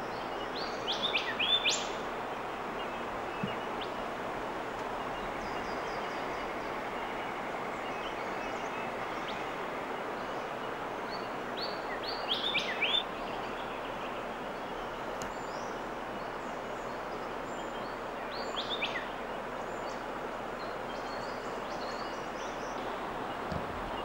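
Outdoor ambience: a steady background hiss, with a bird calling three times, each call a quick run of falling chirps.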